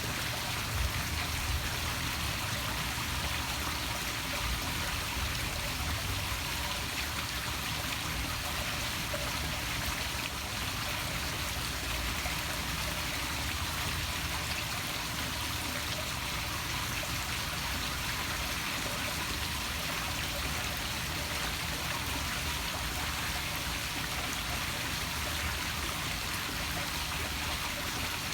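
Small poolside waterfall splashing steadily into a pool.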